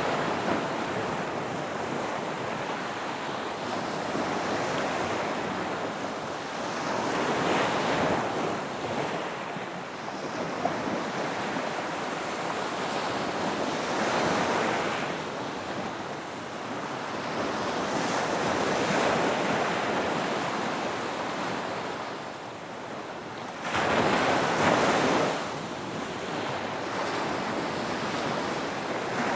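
Ocean waves breaking on a beach, a steady wash of surf that swells as each wave crashes, the loudest break coming near the end.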